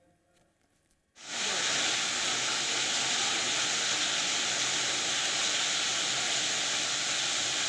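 Hailstorm: a dense, steady hiss of hail and rain pelting down, starting abruptly about a second in.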